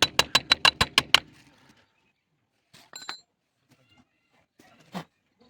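A fast, even run of sharp knocks or clicks, about five or six a second, that stops a little over a second in, followed by a few faint ticks.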